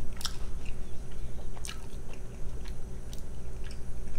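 A person chewing a mouthful of cheese quesadilla with the mouth closed: soft wet mouth clicks and smacks, close to the microphone, over a low steady hum.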